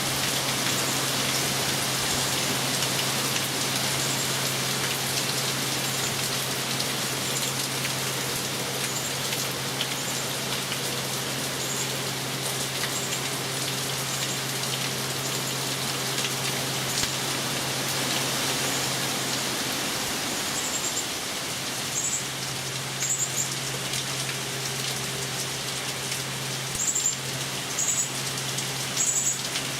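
Steady heavy hurricane rain falling. In the last several seconds it is broken by short, high chirps, often in quick pairs.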